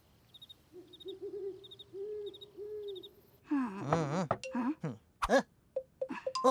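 Cartoon sound effects: a low, wavering hoot-like voice in short arched notes, then a loud warbling, wobbling vocal sound about halfway through, followed by quick clicks and short blips.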